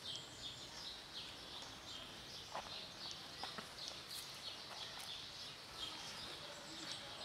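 Faint outdoor ambience with small birds chirping here and there.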